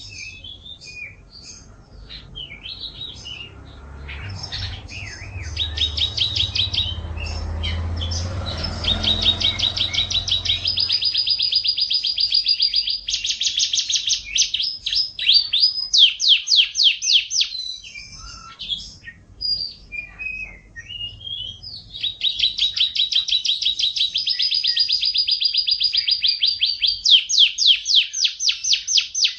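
A songbird singing: quick varied chirps and whistles, then long, very fast high-pitched trills, several lasting a few seconds each. A low rumble sits under the song for a few seconds early on.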